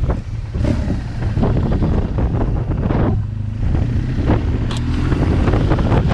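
BMW R1200GS boxer-twin engine running under way, with wind buffeting the microphone. The engine note rises gradually through the middle as the bike speeds up.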